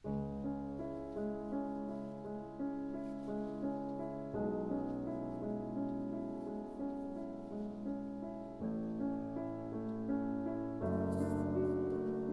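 Piano background music: held chords that change every few seconds.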